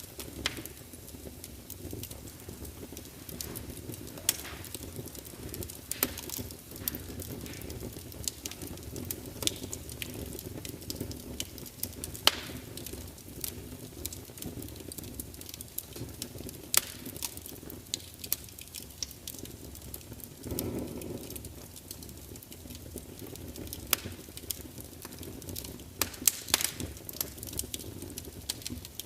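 Wood fire burning in a large open fireplace: a steady low rumble of flames with sharp, irregular crackles and pops from the logs. A brief swell in the flames' rumble comes about two-thirds of the way through.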